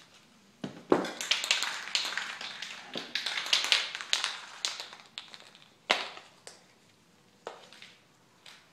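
Handling sounds as a foam model-plane fuselage is set down on a cardboard board: a dense run of light taps, knocks and rustling for a few seconds, then a few single clicks.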